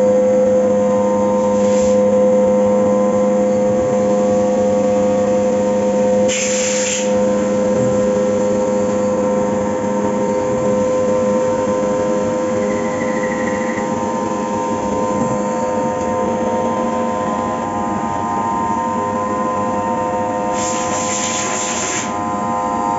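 Fagima Jazz M 5-axis CNC milling machine running a cut, a steady whine of several held tones from the spindle and drives. Two short hissing bursts break in, one about 6 seconds in and a longer one near the end.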